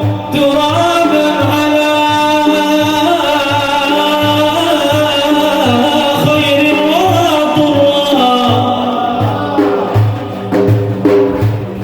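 Sufi devotional praise song: a voice holds long, gliding melismatic notes over drums beating a steady rhythm.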